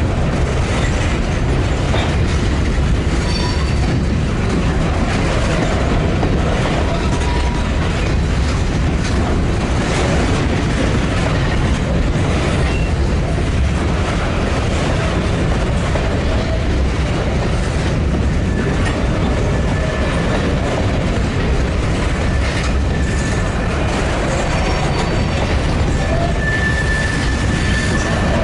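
Freight train of covered hopper cars rolling past close by: a steady rumble of steel wheels on the rails with occasional clacks, and a faint thin wheel squeal in the second half.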